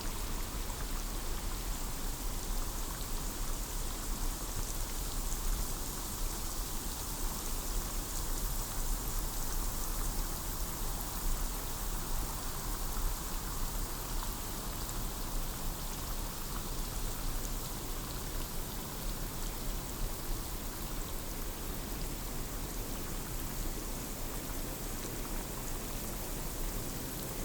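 Steady rain falling on forest foliage: a dense, even patter of drops.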